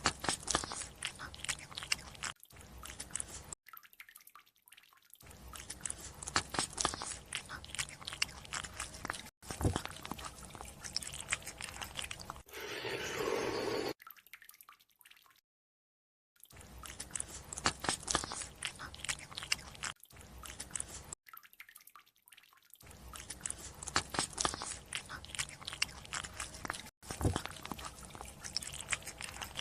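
Close-up wet chewing: crackling, smacking mouth noises, played as a sound effect and heard twice in near-identical passages about eleven seconds long. Each passage ends in a brief louder, steadier mouth sound.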